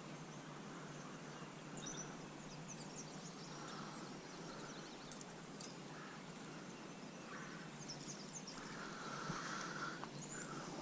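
Faint outdoor background with small birds giving short, high chirps scattered throughout, over a steady hiss.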